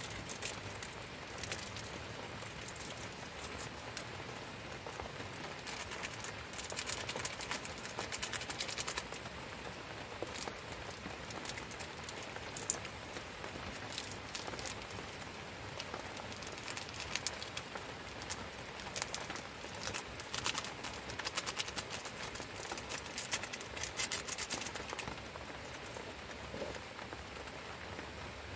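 Rain falling steadily, a dense pattering of drops that comes in heavier spells.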